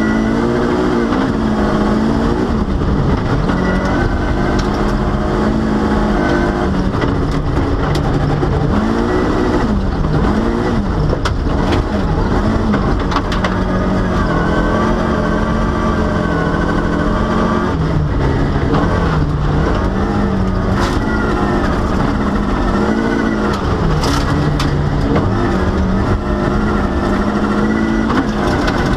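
Volvo rally car's engine heard from inside the cabin, driven hard: the engine pitch climbs and drops again and again as it is revved through the gears and lifted for corners, with scattered short knocks.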